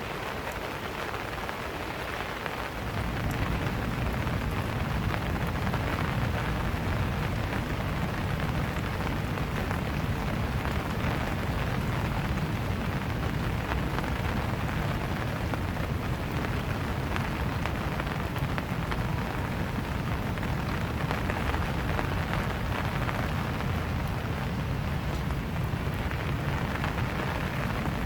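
Steady rain falling, an even hiss of drops, joined about three seconds in by a low rumble that carries on under it.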